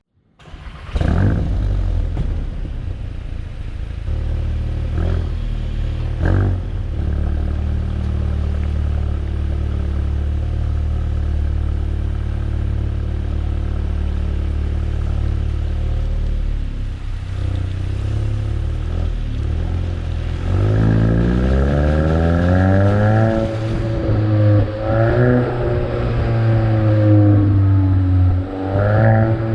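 Volkswagen Golf 8 GTI's turbocharged 2.0-litre four-cylinder engine running steadily, with two short rev blips early on. From about twenty seconds in it accelerates hard, the pitch climbing and dropping back several times as it shifts up through the gears.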